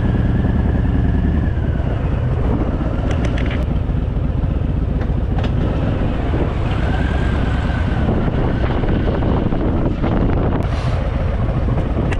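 Harley-Davidson Fat Boy's V-twin engine running steadily.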